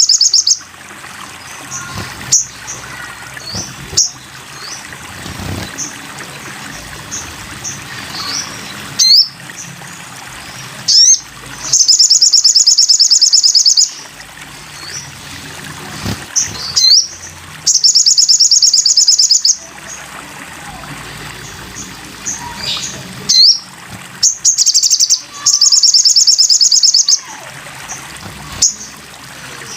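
A sogon sunbird singing: loud, rapid, high-pitched trills about two seconds long, four of them, with short upslurred chips and notes in between.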